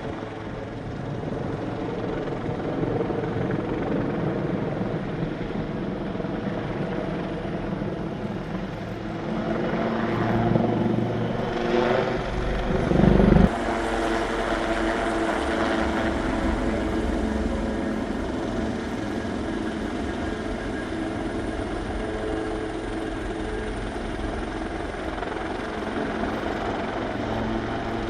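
Royal Navy Wildcat helicopter flying a display, its rotor and turbines running steadily, growing loudest about halfway through as it passes close, then settling back.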